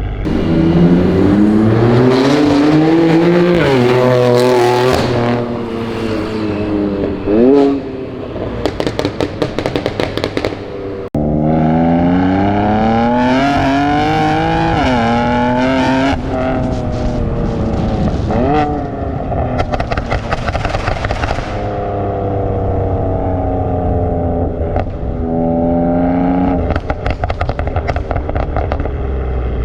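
BMW M3 F80's twin-turbo inline-six, breathing through a titanium exhaust with catless downpipe, accelerating hard with its pitch climbing in steps through upshifts. After lifting off it gives a rapid string of pops and crackles from the exhaust. The pull and crackle happen twice, the second starting abruptly about 11 seconds in.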